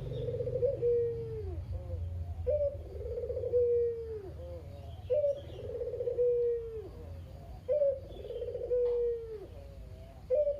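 Puter (domestic Barbary dove) cooing over and over, about four calls spaced two and a half seconds apart. Each call is a short rising note, then a rolling purr, then a drawn-out falling coo. Small birds chirp faintly in the background.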